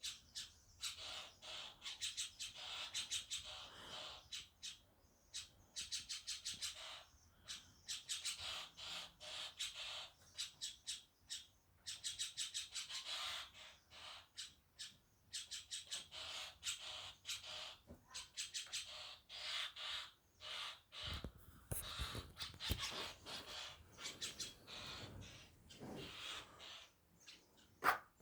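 Common starlings chattering: continuous rapid clicking rattles and whistles, with a few dull low knocks about three-quarters of the way through.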